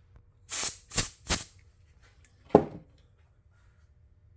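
Three quick puffs of air blown at the Allen-head screw sockets to clear dirt out of them, then one sharp knock about two and a half seconds in.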